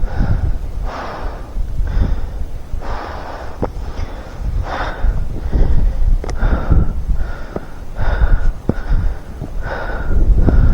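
A hiker's heavy, laboured breathing, a breath about every second, over wind buffeting the microphone as a low rumble.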